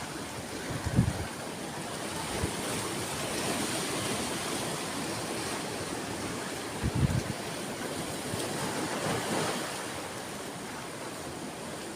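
Sea waves surging and washing in, a steady hiss of surf that swells and eases over several seconds. Two short low thumps come about a second in and around seven seconds.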